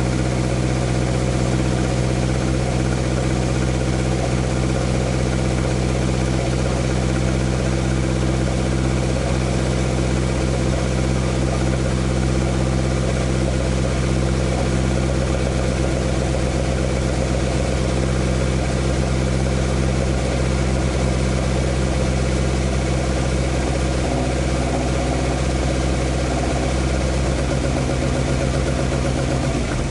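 Toyota AE86's 4A-G twin-cam four-cylinder engine, running on four open intake trumpets, idling steadily. The idle is even and smooth, a healthy idle after the engine's near-failure.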